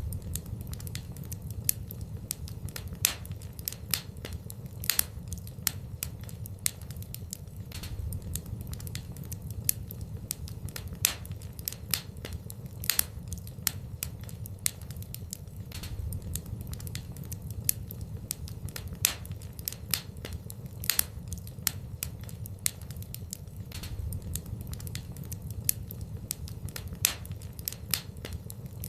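Wood fire burning in a fireplace: a steady run of sharp crackles and pops, several a second, over a low rumble.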